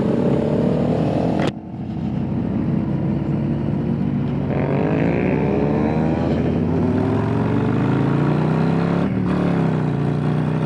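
Motorcycle engine under way, its pitch rising as it accelerates, breaking off sharply about a second and a half in, then climbing again through the middle with a brief drop near the end as it shifts gear before settling into steady running.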